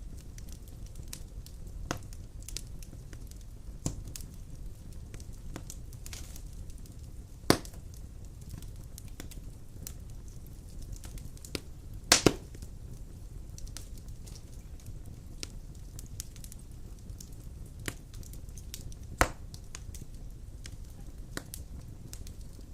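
Large wood logs burning in a fireplace: a steady low rumble of the fire with scattered crackles and a few sharp pops, the loudest a quick double pop about halfway through.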